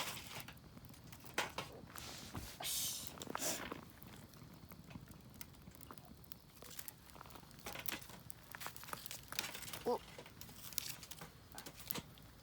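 Rustling and crinkling with scattered small clicks and knocks, and one brief squeak about ten seconds in.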